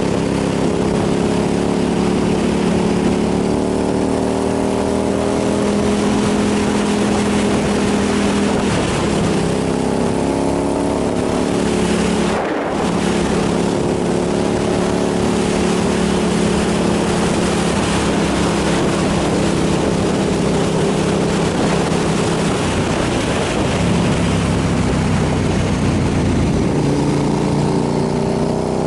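Motorcycle engine running steadily under way, its note drifting slowly up and down, with wind rushing over the microphone. The engine sound briefly dips and breaks about halfway through.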